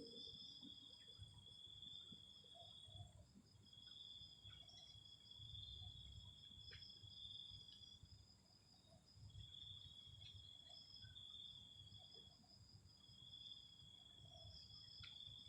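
Insects trilling faintly at a steady high pitch, in stretches of a few seconds broken by short pauses, with a second, higher trill running alongside.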